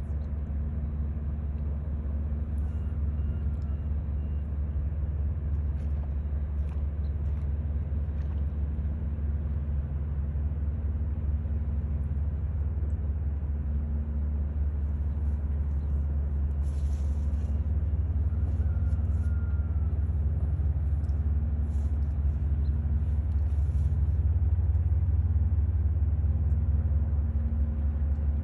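Steady low rumble of a running vehicle engine, with a constant hum that slowly grows a little louder.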